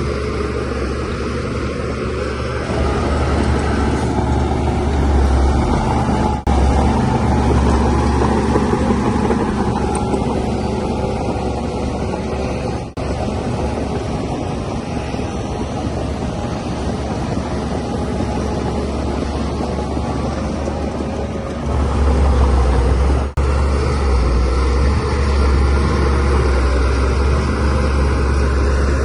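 Bulldozer's diesel engine running steadily under load while pushing soil, with a deep low hum. It gets louder about two-thirds of the way in, and the sound cuts out very briefly three times.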